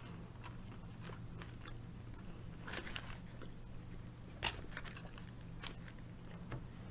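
Chewing a mouthful of crispy fried-chicken sandwich, with soft crunching clicks; two louder crunches come about three and four and a half seconds in. A steady low hum runs underneath.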